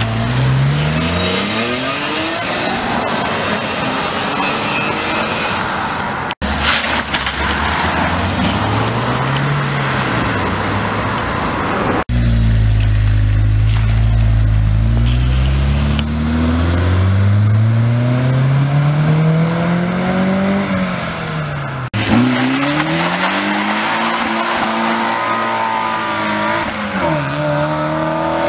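Several cars pulling away hard one after another, each engine revving up in pitch and dropping back at gear changes; a BMW E46 coupé first, a Lotus Elise later.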